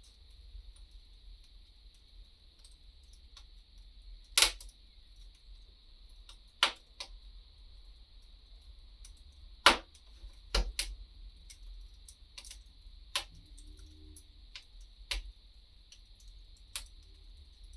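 Wood fire crackling: sharp, irregular pops every second or two, the loudest about four and ten seconds in, over a low steady rumble.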